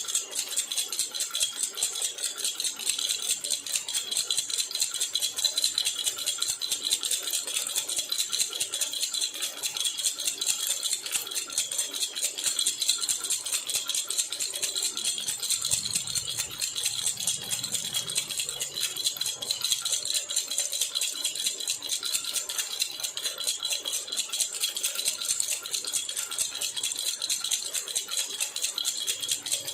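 Jhunjhuna baby rattle shaken continuously, a rapid, even jingling that goes on without a break.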